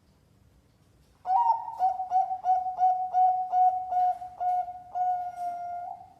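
Zebra dove cooing its song: after about a second of quiet, a string of about a dozen short, clear coos, roughly three a second, ending in a longer drawn-out note.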